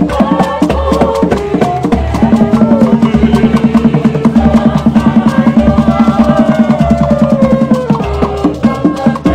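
Live ogene band music: a fast, even percussion pattern over a steady low beat, with a melody line above.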